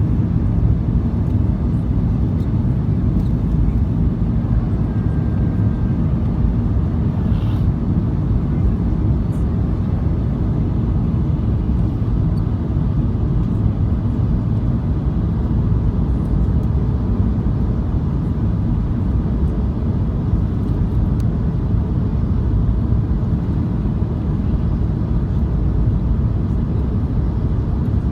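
Steady low rumble of an airliner's engines and airflow heard inside the passenger cabin, without any change in level.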